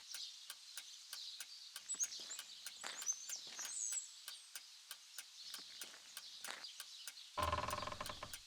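Small birds chirping faintly over a steady patter of light ticks. About seven seconds in, a brief loud, rough, buzzy sound cuts in and stops.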